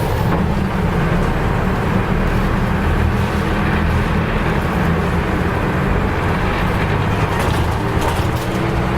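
Nissan Diesel U-UA440LSN city bus's diesel engine running with a steady low drone. Near the end a rising whine begins.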